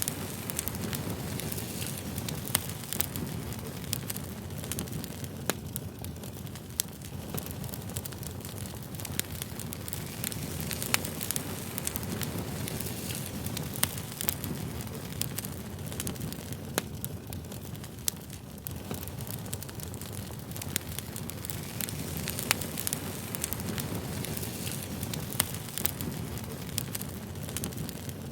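Campfire burning: a steady low rush of flames with frequent irregular sharp crackles and pops of burning wood.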